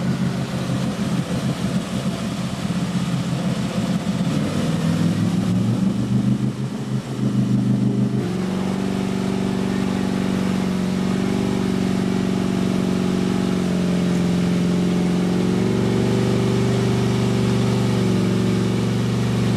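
A modified 4x4 truck's engine revs unevenly, its pitch rising and falling, for about eight seconds. About eight seconds in the sound changes abruptly to a steady engine drone at a held pitch.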